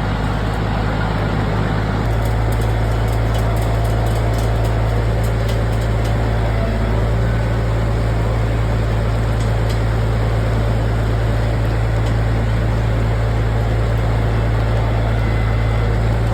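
A vehicle engine running steadily with a strong low hum, which shifts up and holds about two seconds in.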